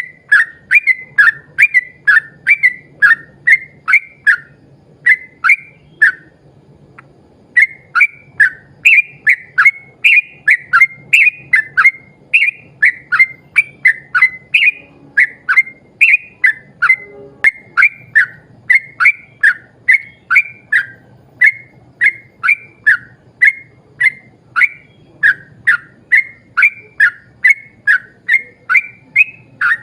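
Yellow-vented bulbul (trucukan) singing a long, rapid run of short whistled notes, about two a second, each note falling in pitch, with one brief pause about six seconds in.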